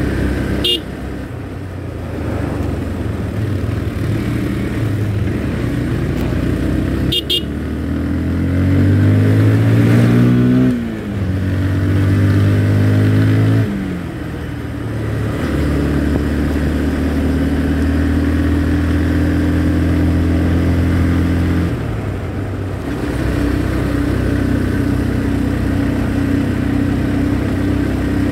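Motorcycle engine under way, rising in pitch as it accelerates through the gears about a third of the way in, with drops at each shift. It then runs at a steady cruise, easing off briefly a little past halfway and then settling again.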